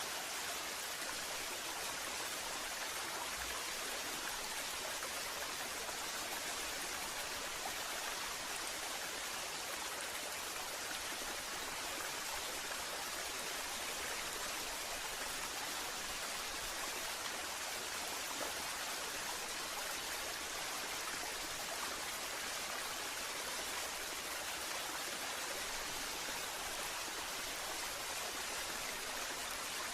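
Waterfall: falling water rushing and splashing in a steady, unbroken hiss, with little low rumble.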